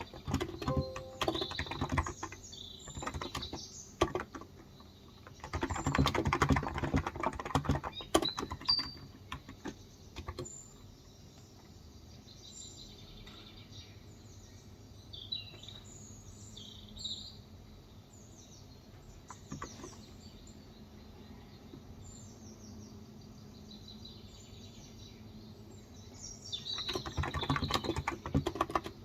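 Typing on a Cox Endeavour electrostatic capacitive (non-contact) 35 g tenkeyless keyboard, in bursts of rapid key presses during the first several seconds and again near the end. In the quieter stretch between, birds chirp with short high calls.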